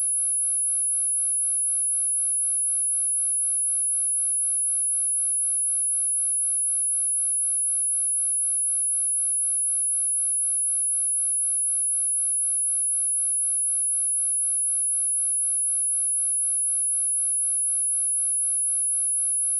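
A steady, high-pitched pure sine-wave test tone at 10576 Hz, held at a constant pitch and level. It is a speaker test signal, also played to shake water and dust out of a speaker.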